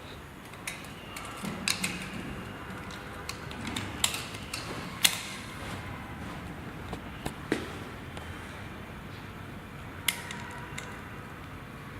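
Scattered clicks and knocks of parts being handled as the filter screen is fitted onto a deep-well submersible pump, with the sharpest knock about five seconds in.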